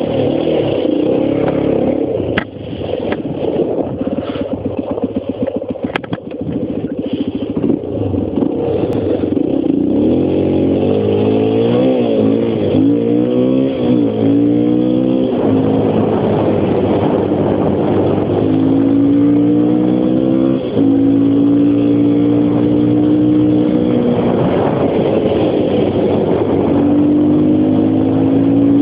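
Honda XR250 trail bike's single-cylinder four-stroke engine heard from on the bike while riding, revving up and dropping back through several gear changes, then pulling steadily with a slowly rising pitch. A few sharp knocks and some clatter in the first several seconds.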